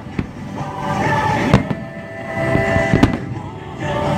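Aerial fireworks shells bursting in a display: a few sharp bangs about a second and a half apart, with a rumbling crackle between them.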